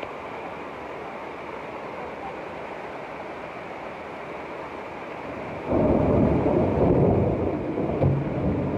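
Steady hiss of heavy rain, then about six seconds in a sudden loud, low rumble of thunder that goes on rolling.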